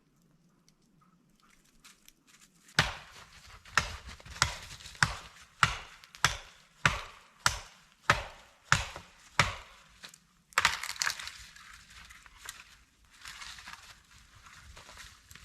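Wood being chopped with a hand tool: about eleven quick, even strikes, a little under two a second, starting about three seconds in. From about ten seconds on comes the rasping of a saw cutting wood.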